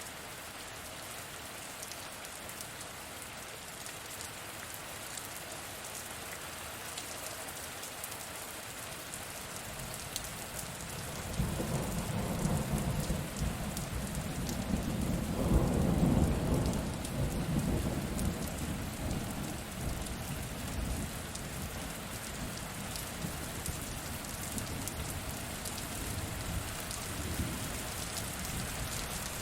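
Steady rain with a long roll of thunder that builds a little over a third of the way in, is loudest around the middle and slowly rumbles away.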